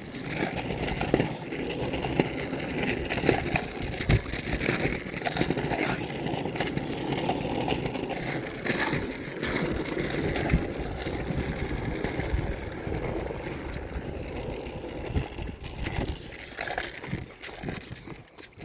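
Bicycle being ridden: steady rolling and rattling noise with scattered knocks and low rumble, dying down near the end as the ride slows.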